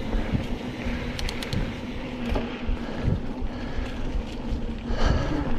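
Mountain bike being ridden on a dirt trail: low rumble of the tyres over the ground and wind buffeting the microphone, with a few short clicks and a brief rattle near the end.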